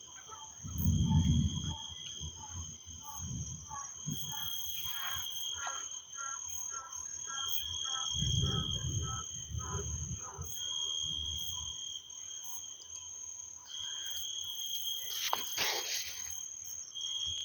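Crickets and other night insects trilling steadily, with two low rumbles of distant thunder, one about a second in and a longer one around eight to ten seconds. A run of quick ticking animal calls sounds through the middle.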